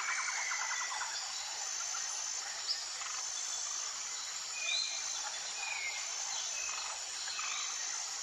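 Tropical forest ambience: a steady high insect chorus with a high tone repeating about once a second. A rapid pulsed trill fades out within the first second, and a few short bird chirps come around the middle.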